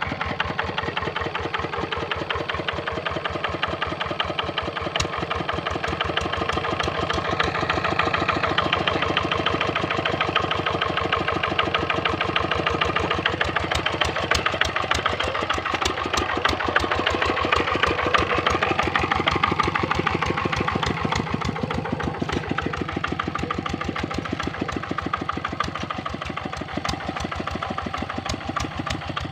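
Kubota RD65 single-cylinder diesel engine of a Quick Capung Metal two-wheel hand tractor, running steadily with a rapid, even chug that rises and falls a little in loudness.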